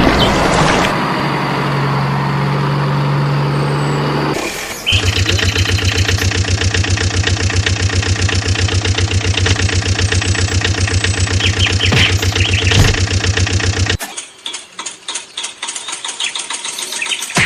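Vehicle engine running with a fast, even pulse. It changes abruptly about five seconds in and again near fourteen seconds, where it turns sparser and choppier.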